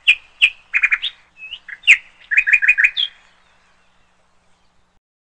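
A songbird chirping: a quick run of sharp chirps and short trills, stopping about three seconds in.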